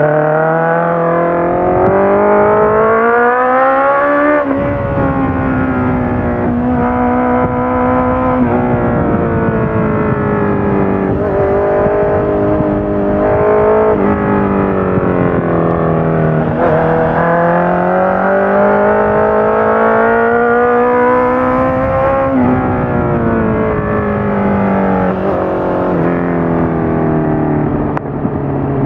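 Honda CBR650F inline-four running through a full Akrapovic exhaust system with the dB killer in, its revs repeatedly climbing and falling, with several sudden drops in pitch as from gear changes.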